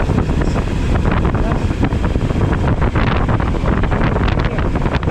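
Heavy wind noise on a motorcycle rider's GoPro microphone while riding: a dense, steady low rumble with scattered crackles.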